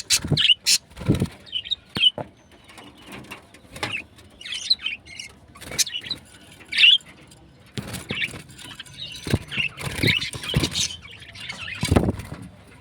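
Small birds giving short, scattered chirps, with intermittent knocks and rustling.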